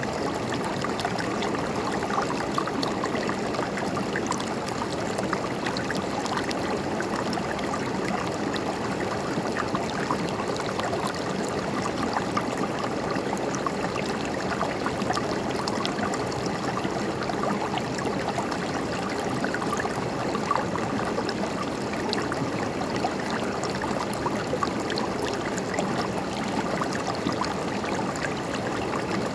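River water flowing and gurgling steadily over rocks, a constant rush with small splashes throughout.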